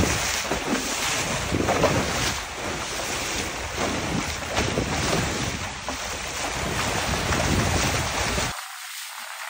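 Wind buffeting the microphone, with sea water rushing past a sailboat's hull under way. The low rumble cuts out abruptly near the end, leaving a quieter hiss.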